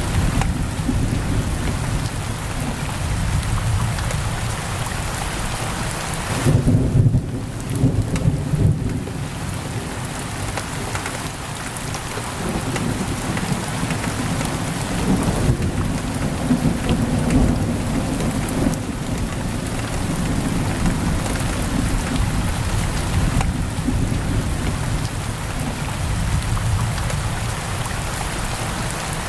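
Heavy rain pouring steadily against a window, with low rolls of thunder rumbling beneath it, loudest about seven seconds in and again around the middle.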